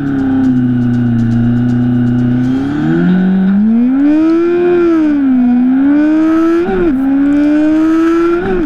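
Drag-racing motorcycle engine held at revs on the line, then launching about three seconds in and accelerating hard down the strip. Its pitch climbs with two quick shifts near the end.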